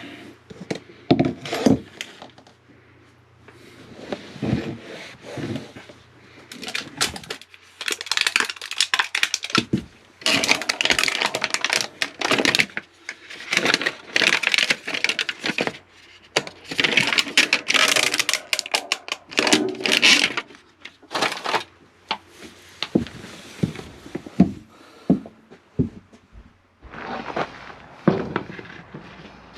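Irregular scraping strokes, each lasting a second or two, mixed with clattering and sharp knocks: hand-tool work on the toilet's floor repair.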